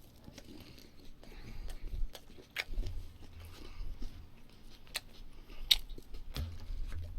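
A person chewing and biting a mouthful of barbecued meat and vegetables close to the microphone, with sharp wet mouth clicks now and then.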